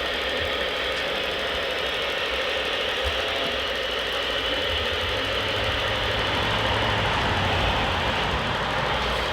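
Radio-controlled model construction machine running steadily, a mechanical engine-like hum and whine that grows a little fuller and louder from about five seconds in.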